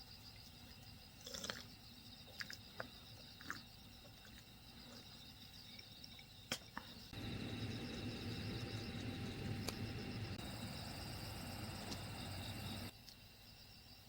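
Insects chirping steadily in a high, pulsing chorus, with a few light clicks and knocks in the first few seconds. About halfway through, a louder low rushing noise comes in for about six seconds and cuts off abruptly.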